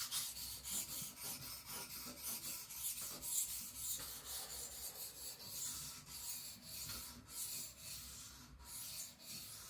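A 75Cr1 carbon-steel knife blade stroked back and forth on a whetstone, a dry scraping hiss in repeated short strokes. These are light-pressure passes (about 300–500 grams) on the very edge, refining the apex after the edge has been lowered.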